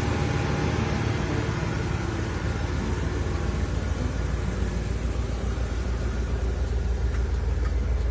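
A car engine idling with a steady low rumble, cutting in suddenly.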